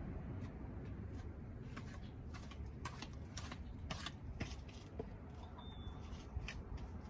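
Light, irregular clicks and taps of handling noise, a few a second, over a low steady rumble.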